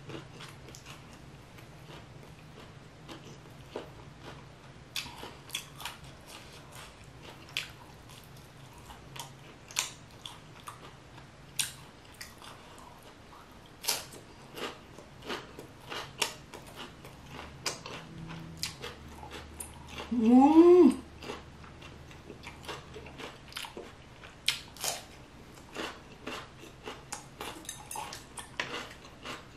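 Close-up mouth sounds of a person eating: chewing and crunching with many small sharp clicks and smacks. A little past two-thirds of the way in, a short rising hummed "mmm" stands out as the loudest sound.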